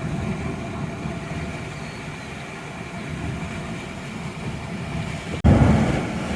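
Steady vehicle rumble of engine and road noise, heaviest in the low end, with faint steady hum tones above it. It breaks off abruptly about five and a half seconds in and comes back louder.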